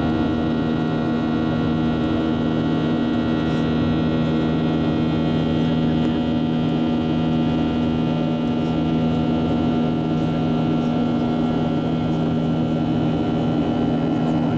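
Boeing 737 jet engines running at a steady drone: a constant layered hum with several fixed tones over a rush of noise, unchanging throughout.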